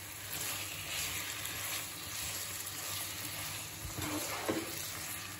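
Marinated chicken pieces sizzling in hot oil and garlic in a frying pan, a steady hiss. About four seconds in, a spatula scrapes and knocks in the pan as the chicken is stirred.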